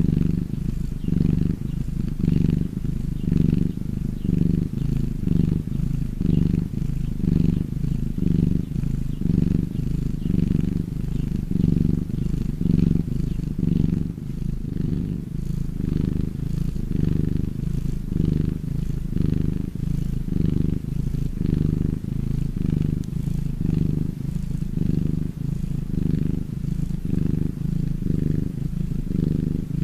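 A cat purring steadily: a low, rhythmic rumble that swells and eases with each breath in and out.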